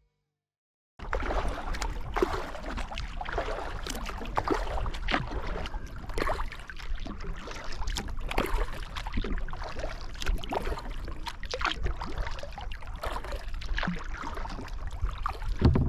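Water splashing and sloshing around a kayak, with paddle strokes and a steady low rumble underneath. It starts abruptly about a second in, and there is a heavy thump near the end.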